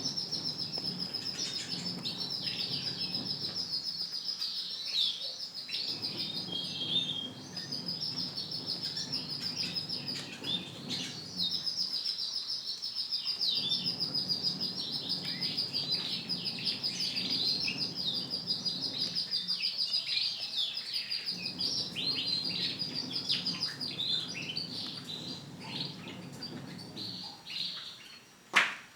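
Canary chirping in rapid, high trills that run on almost without a break, with a sharp click near the end.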